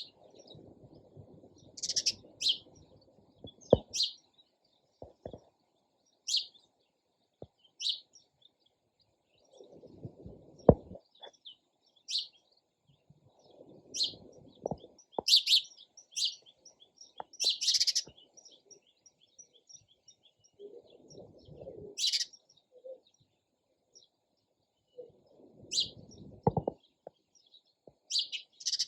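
Sparrows chirping: short sharp chirps every second or two, some singly and some in quick clusters. Patches of low noise and a few clicks come and go underneath.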